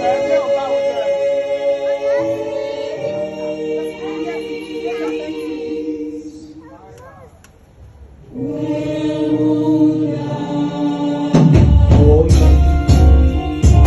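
Gospel music: singing voices over long held chords. It dies down briefly in the middle, then swells back. Bass and drums come in about two seconds before the end.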